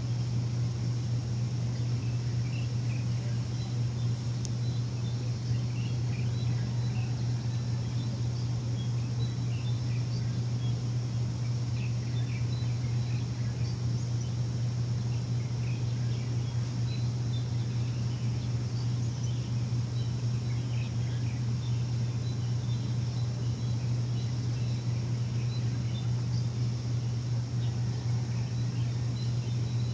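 A machine running with a steady low hum, with many small birds chirping faintly over it.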